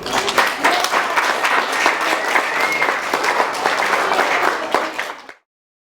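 Audience applauding, a dense patter of many hands clapping, which cuts off abruptly about five seconds in.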